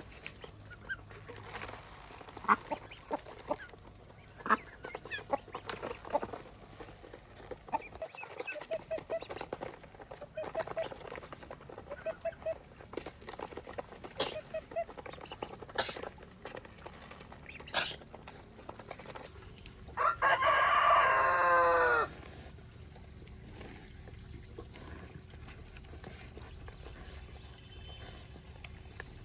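Chickens clucking, mixed with scattered sharp clicks, as they feed. About two-thirds of the way through, a rooster crows once, loudly, for about two seconds.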